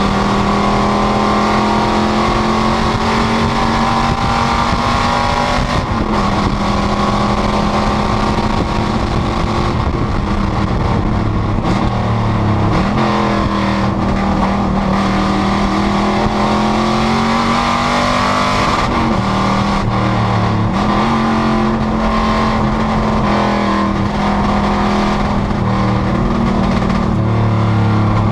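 Panoz GTS race car's engine running hard at speed, holding steady revs for long stretches. The pitch dips and recovers briefly about six seconds in, around twelve seconds, and again around nineteen and twenty-one seconds: gear changes and lifts for corners.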